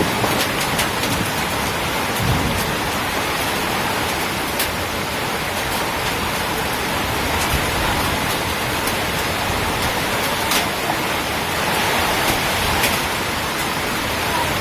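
Heavy rain pouring steadily, with sharp close drops hitting a surface scattered through it. A brief low thud about two seconds in.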